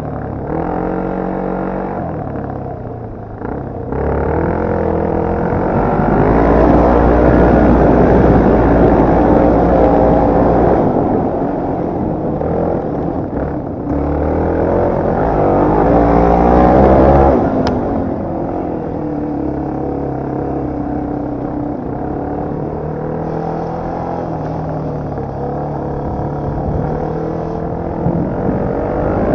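Motocross/enduro motorcycle engine being ridden hard, the revs climbing and dropping again and again with throttle and gear changes. A sharp click about seventeen seconds in.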